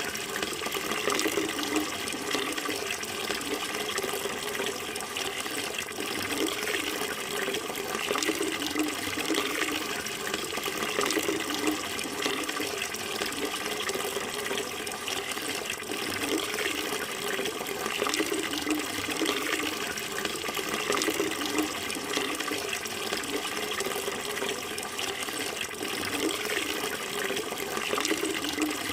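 Running water flowing steadily and continuously.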